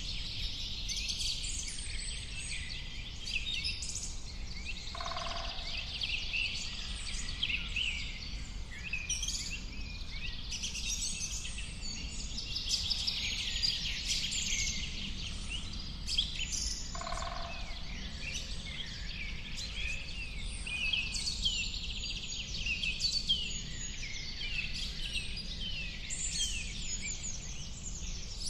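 A dense chorus of many small birds chirping and trilling at once, with a steady low rumble beneath. A short, lower-pitched call cuts through three times, roughly every twelve seconds.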